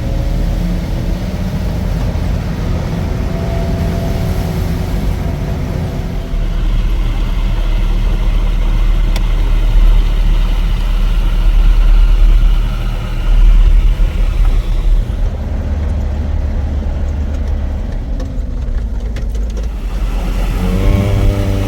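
Motor vehicle running on the move: a steady low engine rumble with road noise.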